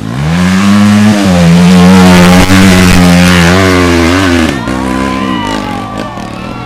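Motorcycle engine revving up sharply and held at high revs for about four seconds under load on a steep hill climb, then dropping off, with people shouting after.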